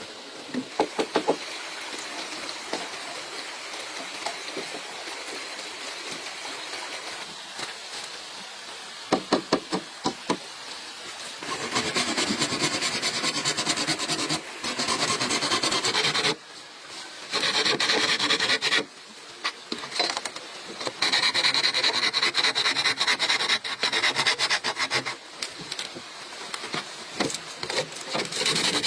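Hand tool rasping on bamboo: a few sharp knocks, then, from about a third of the way in, fast scraping strokes in runs of a few seconds with short breaks between them.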